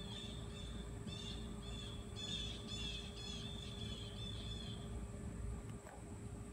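A bird calling in a rapid series of about a dozen short, high chirps that stop about five seconds in, over a steady low background hum.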